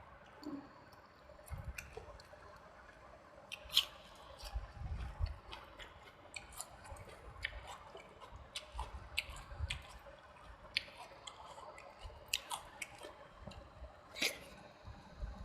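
Close-miked eating: wet chewing and mouth sounds with many short, sharp clicks and smacks, a person eating a vegetable curry-and-rice meal.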